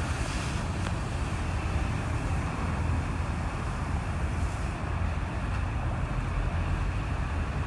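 Steady roadway traffic noise: a constant low rumble with a hiss over it and no separate events.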